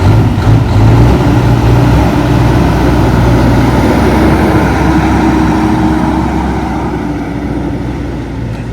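Big-rig diesel truck engine driving past, loud at first and then gradually fading as the truck moves away.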